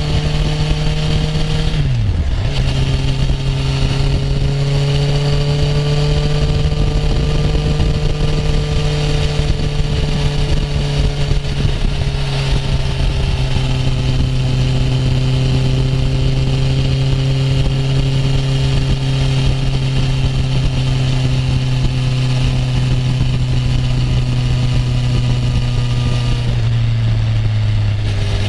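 Honda CB650F inline-four motorcycle engine running at a steady cruise. The pitch drops sharply for a moment about two seconds in, drifts gently, and steps down to a lower note near the end.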